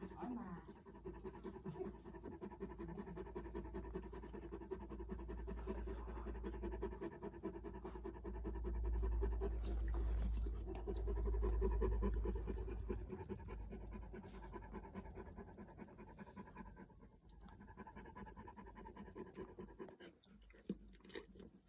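Great Dane puppy panting in quick, continuous breaths. A low rumble swells under it for a few seconds in the middle, the loudest part, and the panting thins out near the end.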